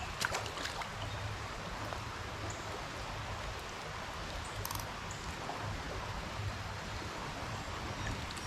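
Steady rushing of flowing creek water, with a few faint clicks near the start.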